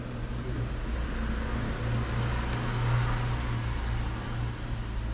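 Hitachi SF-150TCV washing machine in its spin cycle: a steady, loud mechanical drone with a low hum that swells and eases. The whole cabinet shakes, which the owner thinks may be the drum's axis running off-centre.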